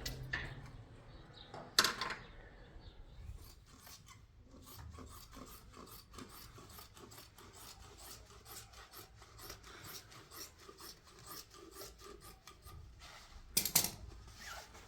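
Quick repeated scraping or rubbing strokes of a hand tool working a surface, with a sharp knock about two seconds in and a louder burst of scraping near the end.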